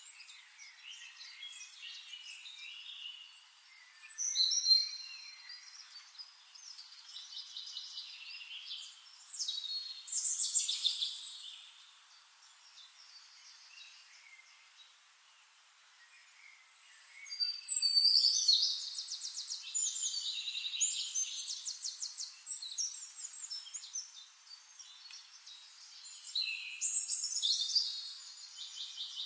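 Songbirds singing: bursts of high chirps, short whistled glides and fast trills, coming in phrases with a quieter stretch about halfway through.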